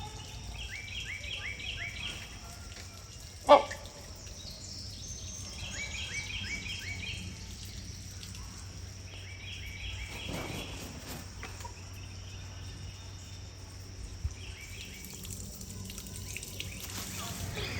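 A bird singing a short phrase of about five quick, hooked chirping notes, repeated four times with pauses between, over a steady high-pitched drone. A single loud, sharp knock sounds about three and a half seconds in.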